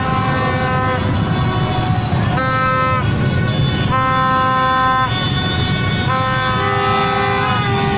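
Vehicle horns honking over and over in a dense convoy of traffic, blasts of about a second each from several horns at different pitches, sometimes overlapping, over the steady din of many engines.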